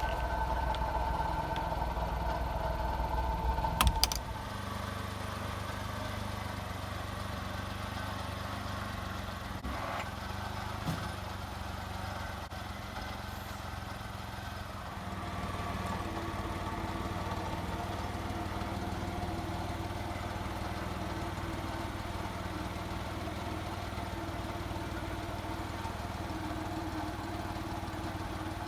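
1989 Daihatsu Hijet mini dump truck's engine running steadily at idle. A couple of sharp clicks come about four seconds in, after which the engine sounds quieter, and its note shifts slightly again about fifteen seconds in.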